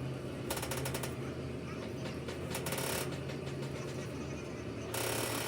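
Workshop machinery running with a steady hum, broken by three short bursts of rapid metal clatter about two and a half seconds apart.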